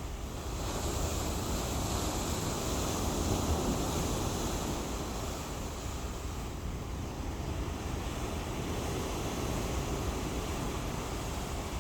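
Ocean surf washing ashore, a steady rush of waves that swells about a second in and eases off after a few seconds, over a low rumble.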